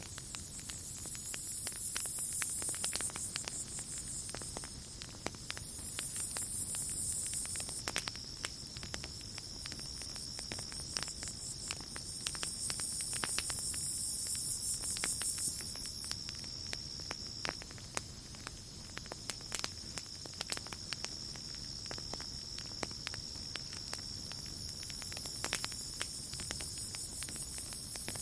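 Campfire crackling with irregular sharp pops, over a steady high-pitched drone of night insects. A second, higher insect buzz swells in and fades out several times.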